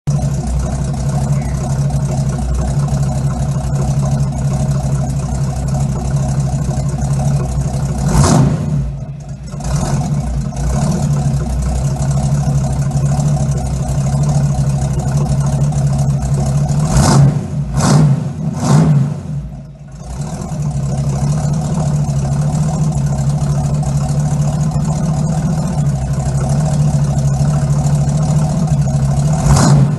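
1965 Ford Mustang's stock V8 idling through its dual exhaust, blipped three times: once about eight seconds in and twice in quick succession a little past halfway, each rev quickly falling back to idle.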